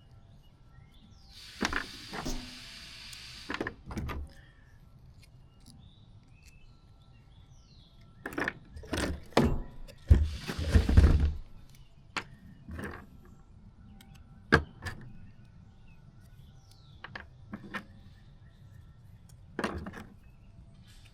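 Handling noises of small plastic tail-light pieces and tools on a workbench: scattered clicks and taps, with two longer rustling bursts, one near the start and one about halfway through.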